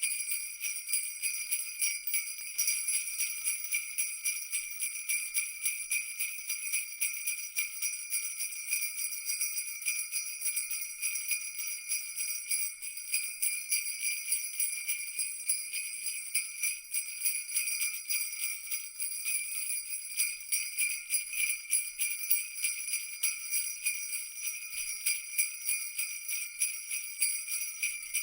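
Jingle bells shaken continuously in a fast, even jingle, high-pitched with a steady shimmering ring.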